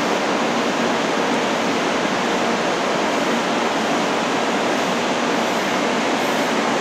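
Steady rushing hiss from a 500 Series Shinkansen trainset standing at the platform, its onboard equipment running while it waits to depart.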